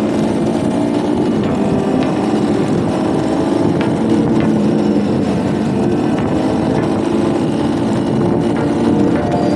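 Motorcycle engine running steadily while riding, with a slight drift in engine pitch.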